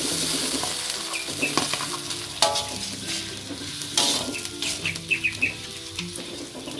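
Fried eggplant pieces tipped into a wok of hot sauce, which sizzles. A metal spatula then stirs and scrapes them, clinking sharply against the wok twice, each with a short ring, with a few lighter taps after.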